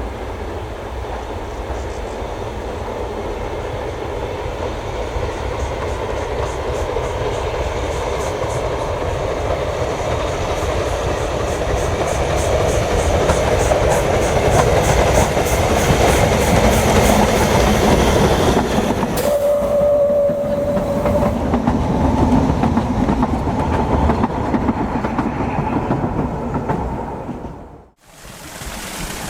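Narrow-gauge steam train approaching and passing, growing louder with a quick rhythmic beat to a peak about halfway through. It then sounds one steady whistle note of about two seconds and fades away. Low wind rumble on the microphone throughout, and the sound cuts off suddenly near the end.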